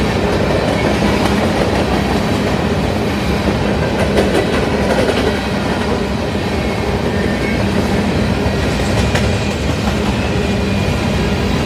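Covered hopper cars of a grain train rolling past close by: a steady rumble of steel wheels on rail, with a few clicks of wheels over the rail.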